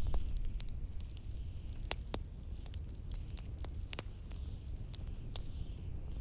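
Wood fire crackling with scattered sharp pops, over a steady low rumble of blizzard wind and a faint hiss.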